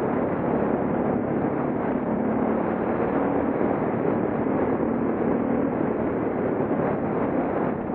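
Suzuki DR650's single-cylinder engine running steadily as the motorcycle rides along, under a dense rush of wind noise on the camera microphone.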